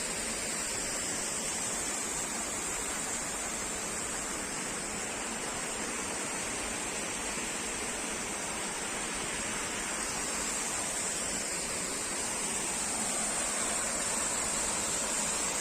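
Waterfall's falling water rushing steadily, an even hiss with no breaks, and a steady high-pitched band running through it.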